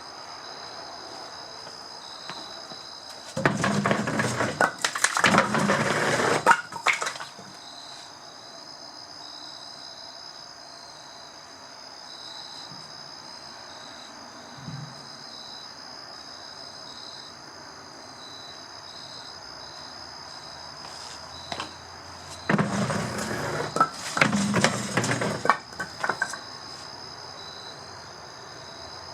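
Firewood tumbling down a culvert drain pipe chute: two loud bursts of clattering and knocking a few seconds long each, a few seconds in and again after about twenty seconds. Crickets chirp steadily throughout.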